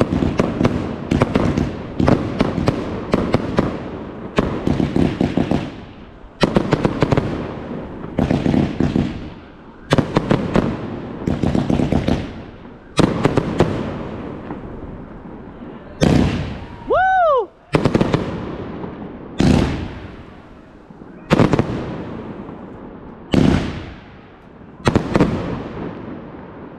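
Fireworks going off: a dense run of bangs and crackling at first, then single bangs every second or two, each trailing off. Around the middle a short whistle rises and falls in pitch.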